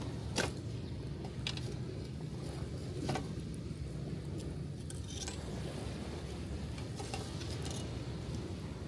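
Wood campfire crackling, with sharp pops every second or so, over a steady wash of gentle surf.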